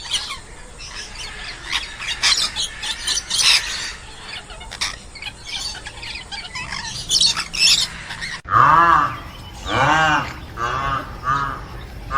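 Many birds chirping and squawking in quick high calls. After a sudden cut about eight seconds in, a chicken gives a series of drawn-out clucking calls that rise and fall in pitch.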